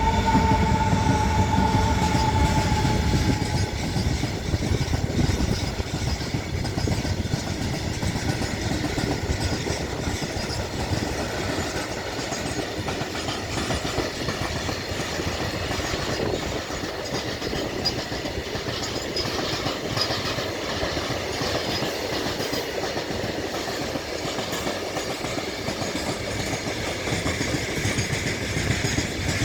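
Goods train passing at speed: a steady run of wagon wheels over the rails. A high steady tone sounds at the start and fades out within the first few seconds.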